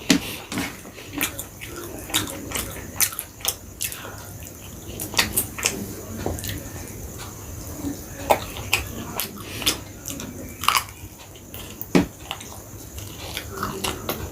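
Close-miked chewing of chicken biryani and chicken chaap: irregular wet mouth smacks and clicks, several a second at times.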